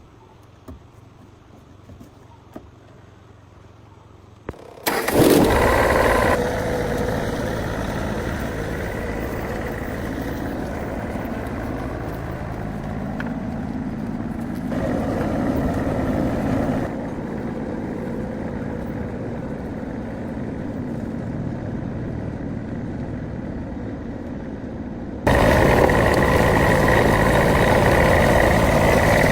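A truck engine starting about five seconds in, then running steadily, with abrupt jumps in loudness a few times.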